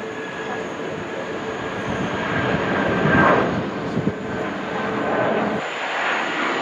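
Jet airliner engines running nearby, a steady whine over a rushing noise that swells to a peak about three seconds in and then eases off, the deep rumble dropping away near the end.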